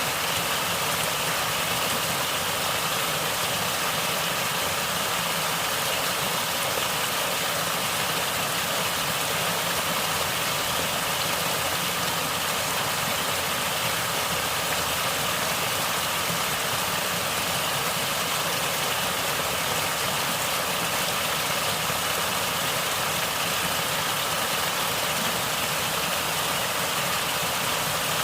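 Natural stream water flowing and gurgling, an even, steady rushing noise with no pauses or changes.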